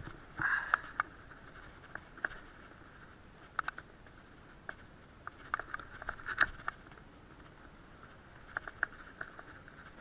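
Faint irregular clicks and taps over a steady low hiss, with a cluster near the start and another around six seconds in.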